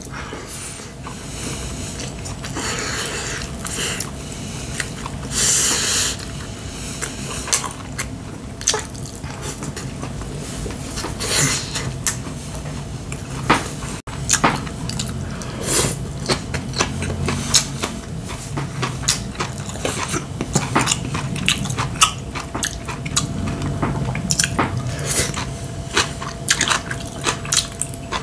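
Close-up eating sounds: wet chewing and smacking of mouthfuls of rice and side dishes, with many quick clicks of chopsticks against bowls and plates.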